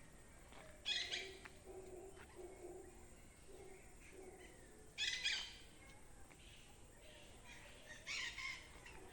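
Birds calling: a run of low, repeated hoot-like notes, cut by three short, bright calls about a second in, about five seconds in and near the end.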